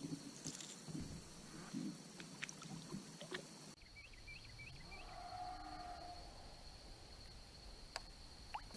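Quiet sounds around a fishing kayak on a river: light knocks and handling clicks with a little water. A faint, drawn-out call is heard in the middle, and two sharp clicks come near the end.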